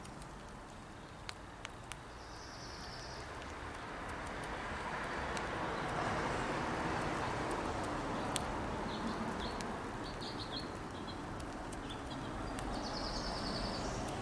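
Small birds chirping in short high trills a few seconds in, again in the middle and near the end, over a steady outdoor rushing noise that swells in the middle. A few sharp clicks come in the first two seconds.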